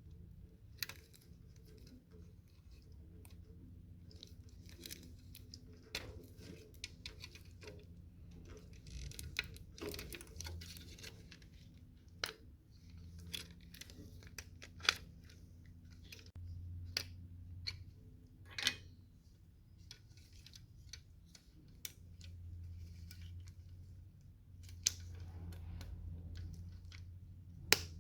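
Irregular sharp clicks, snips and short scrapes of hand tools working on the metal and plastic parts of a microwave oven being dismantled, over a faint steady hum.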